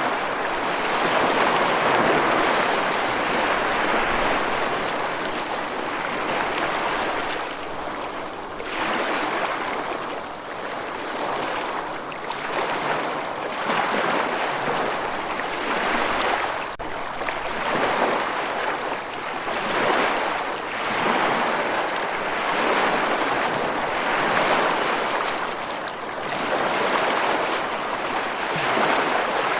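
Rushing water, a continuous wash that swells and ebbs every couple of seconds.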